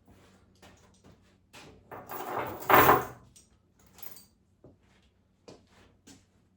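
Knocks and rustles of gear being handled, with a louder scraping rush from about two seconds in that peaks just before the three-second mark.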